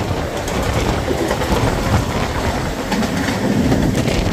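Mumbai suburban EMU local train running at speed, heard from its open doorway: a steady rumble of wheels on rail with the clickety-clack of wheels over rail joints.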